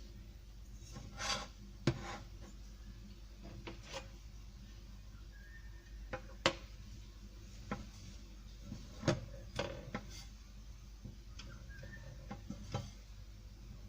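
A cooking utensil scraping and clicking against a pan as pancakes are handled, with a rubbing scrape about a second in and scattered sharp knocks through the rest.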